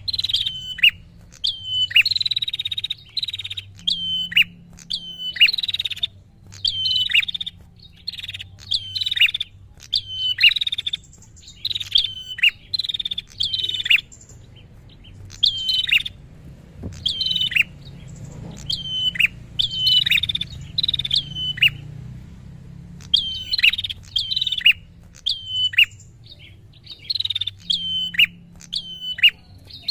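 Prinia (prenjak) calling in a rapid series of sharp, high chirps, each note dropping steeply in pitch, about two a second with a few short pauses.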